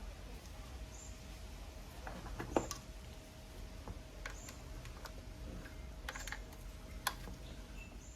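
Scattered light clicks and taps of tools and parts being handled during work on a rotary hammer drill, with two sharper knocks about two and a half and seven seconds in. A faint high chirp repeats about every second and a half to two seconds.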